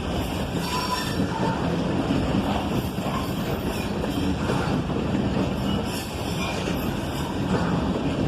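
Freight train cars rolling past with a steady rumble, their wheels giving off short high squeals against the rails.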